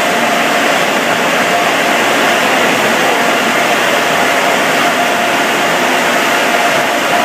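Car wash air dryer blowers running loud and steady, a rushing blast of air with a faint steady whine in it.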